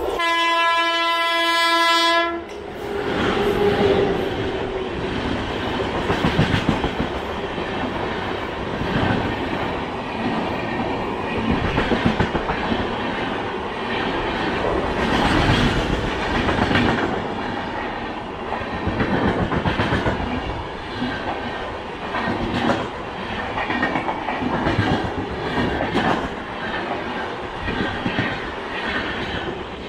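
An express train runs through on the adjacent main line, overtaking a train held at the station. Its locomotive horn gives one steady blast for about two seconds at the start, then the coaches clatter past over the rail joints, easing off near the end as the tail passes.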